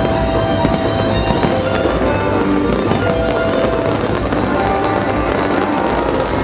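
Fireworks display going off without pause: aerial shells and ground fountains fill the air with dense crackling and popping, while a music soundtrack plays over them with held notes.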